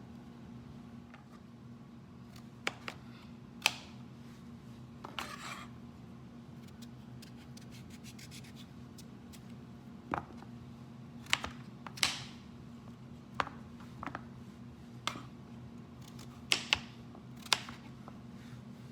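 Knife cubing a pumpkin: a dozen or so sharp, irregular knocks and short scrapes as the blade cuts through and meets the surface below, over a steady low hum.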